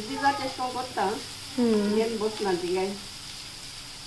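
Chopped onions sizzling in hot oil in a frying pan, stirred by hand. A woman talks over it for about the first three seconds.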